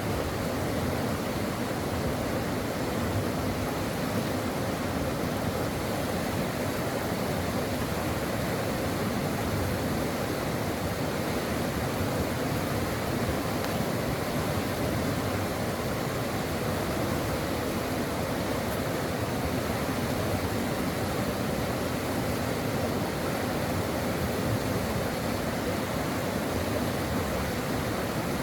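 Brook water flowing steadily over rocks: a continuous, even rushing with no breaks or changes.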